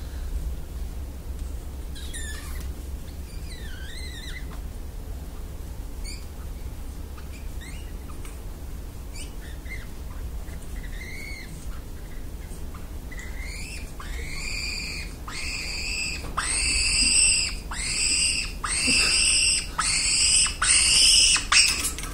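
A parrot giving scattered short chirps and whistles, then, about two-thirds of the way in, a run of loud, evenly spaced repeated calls, roughly one a second.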